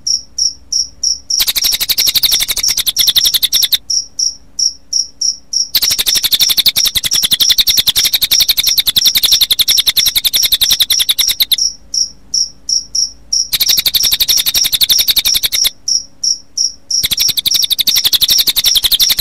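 Recorded cililin birdsong mixed with cricket chirping: long stretches of rapid, high-pitched trilling alternate with short runs of evenly spaced high chirps, about three or four a second.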